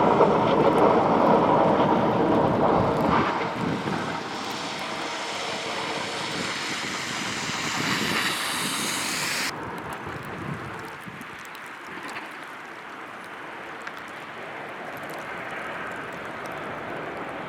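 Road traffic in snow: vehicle engines and tyre hiss on a wet, snowy road, loudest at first, with a rising hiss that cuts off abruptly about halfway through, then a quieter steady run of traffic noise.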